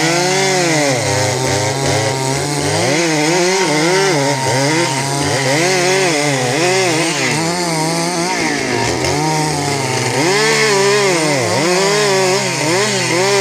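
Two-stroke chainsaws running hard through wood, their engine pitch dipping and climbing over and over as they bog in the cut and rev back up.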